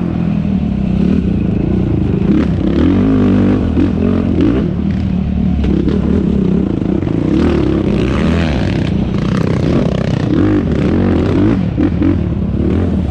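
Yamaha YFZ450R quad's single-cylinder four-stroke engine revving up and down again and again as the ATV is ridden hard off-road, with rattling and knocks from the machine over rough ground.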